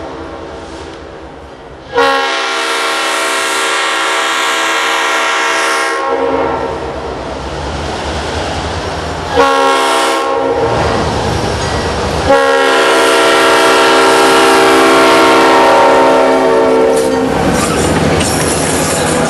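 Diesel locomotive air horn sounding a chord in three blasts: a long one about two seconds in, a short one near the middle, then another long one, over the rumble and clatter of the moving train.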